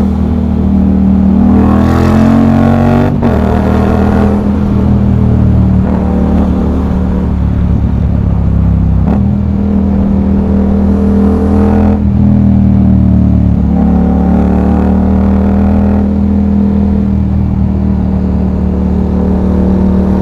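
Yamaha MT-07's CP2 parallel-twin engine through an aftermarket full exhaust system with an SC-Project end can, under way on the road. The engine note climbs in pitch, drops suddenly about three seconds in, then holds a steady, loud drone with small swells.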